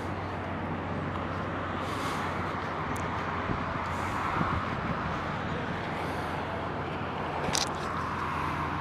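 Steady low rumble and hiss of distant road traffic, with a couple of brief sharp clicks.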